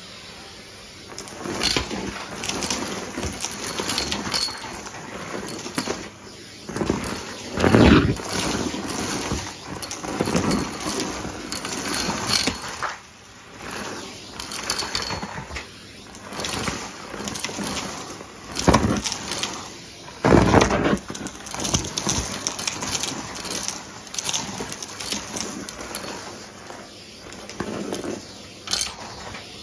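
Numatic Hetty cylinder vacuum cleaner running, its hose and metal wand sucking up loose mess, with irregular surges, rattles and knocks as debris is pulled in and the wand bumps the floor.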